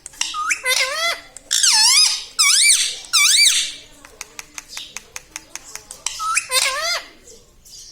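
Pet parrot giving a string of loud squeaky calls that swoop up and down in pitch, then a quick run of clicks, about six a second, and one more swooping call near the end.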